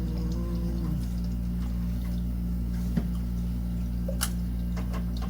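Steady low electrical or mechanical hum, with a few light clicks of handling parts about three and four seconds in.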